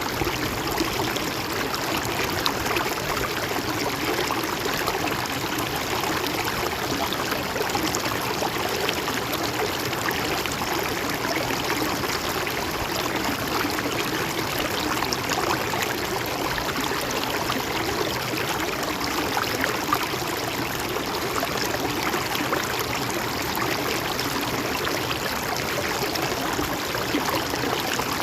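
A river or stream flowing steadily, an even rush of running water with fine gurgling detail.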